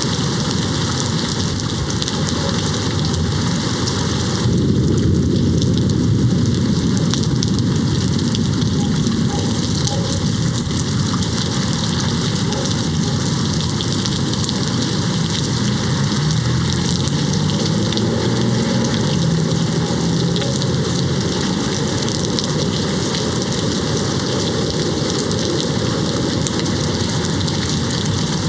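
Steady rain hitting a window. About four or five seconds in, a low rumble of distant thunder swells and fades over several seconds, and a fainter rumble comes later.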